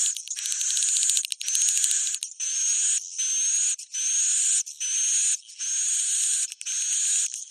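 Swiftlet roosting-call lure recording: a steady series of buzzy chirps, a little more than one a second, each with a rising whistle on top. A rapid run of clicks comes about a second in.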